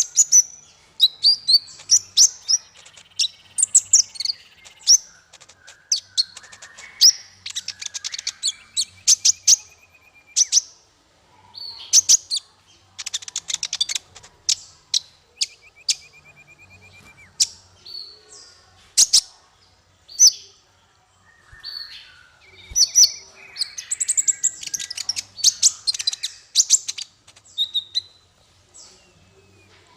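Small songbirds calling in a fast, varied stream of short, sharp high chirps and rapid note clusters, with a couple of buzzy trills lasting a second or two. This is a masteran recording of the kind played to tutor caged songbirds.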